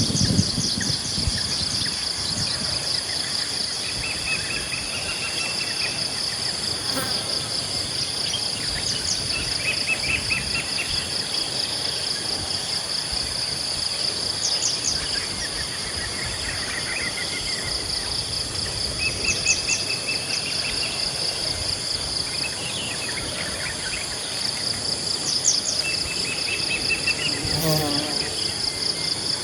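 Steady high-pitched drone of insects at a pond, with a small bird repeating short trilled calls every few seconds over it.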